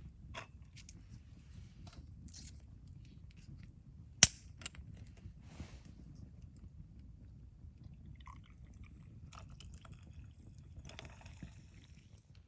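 Wood fire crackling in a BUNDOK Lotus fire pit over a steady low rumble of flame, with one loud sharp pop about four seconds in and a flurry of small crackles near the end.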